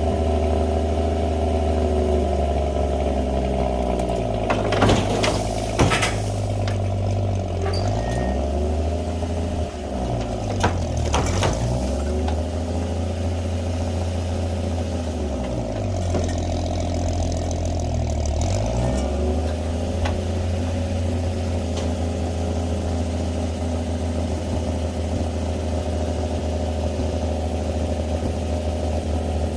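Old winch truck's engine running steadily, its speed dropping and picking back up three times, with a few sharp metal clanks.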